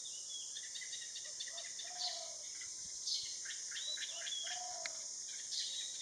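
Small birds chirping in quick, scattered short notes, with a steady high-pitched insect drone behind. Twice, a lower, rounded two-note call stands out.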